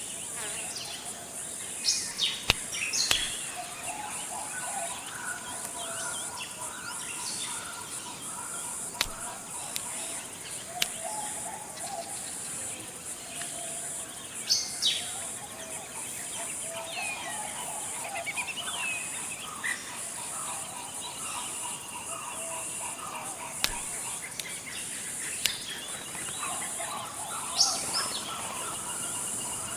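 Forest ambience: a steady high insect drone under many overlapping bird calls and chirps, with a few louder, sharp calls that drop in pitch near the start, in the middle and near the end.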